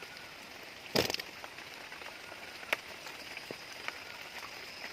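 Rain falling, a steady hiss with scattered sharp drip-like ticks, and one short louder rustle or splash about a second in.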